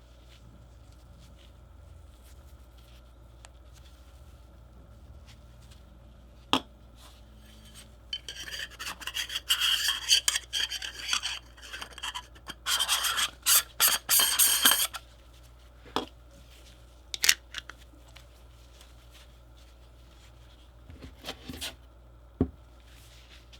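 Objects being handled during an unboxing: two stretches of rubbing and scraping, the second louder, with a few sharp clicks and small knocks before and after.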